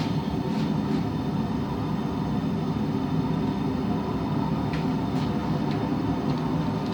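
Steady low rushing noise of a running forge, with a few faint metallic clicks as the hot blade is worked.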